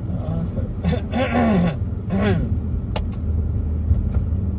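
Car engine running with a steady low drone, a voice briefly over it between about one and two and a half seconds in, and a single sharp click about three seconds in.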